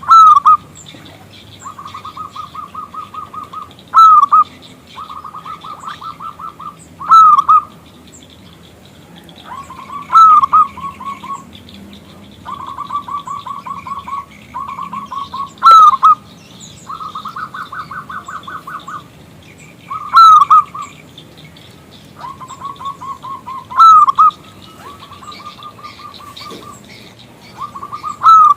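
Zebra dove (perkutut) cooing: rapid trills of short coo notes at one pitch, broken about every four seconds by a louder, bent coo. This is a perkutut call played to draw male doves into answering.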